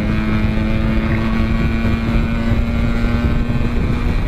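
Motorcycle engine running at a steady high speed, its pitch held even, with wind rumble on the helmet microphone.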